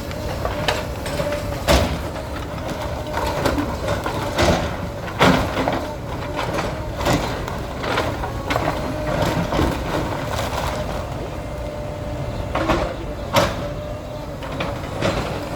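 Bulldozer running steadily with a held whine, with scattered sharp knocks and bangs, the loudest about 2 s in, about 5 s in and near the end, as it works through a demolition.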